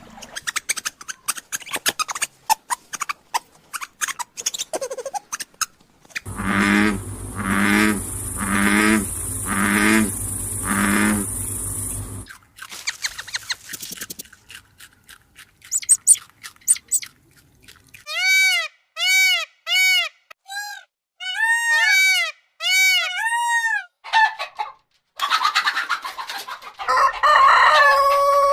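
A string of different animal calls, one after another. First comes scattered clicking, then five evenly spaced pulsed calls, then a run of short arched calls. Near the end a chicken begins to call.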